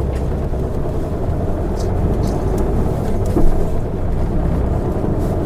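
Isuzu Erga city bus's diesel engine pulling away from a stop, heard from inside the cabin as a steady low drone with road noise. A few light knocks or rattles come about two and three and a half seconds in.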